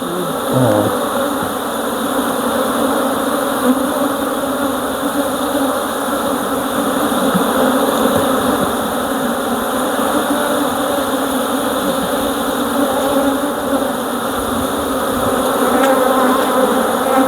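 Many honeybees buzzing around an opened hive: a steady, dense hum that goes on without a break.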